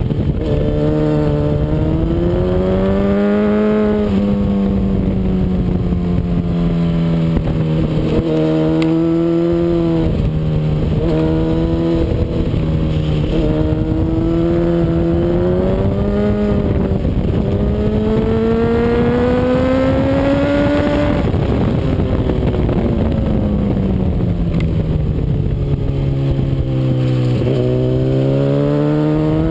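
Honda CBR RR sportbike's inline-four engine at speed, pitch climbing and dropping sharply again and again as the bike accelerates and shifts up through the gears. Near the middle one long climb peaks and falls away as it slows, and the engine rises again near the end, over a steady rush of wind noise.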